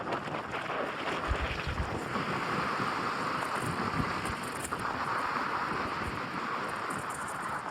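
Wind blowing over the microphone: a steady rushing noise with occasional low buffeting thumps.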